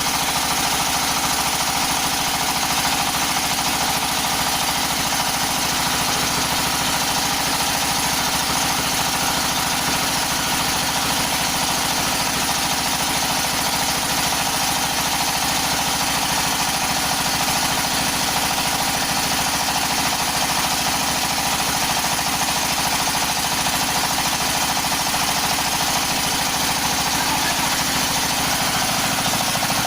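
Floating fish-feed pellet machine running steadily, a continuous engine drone that does not change.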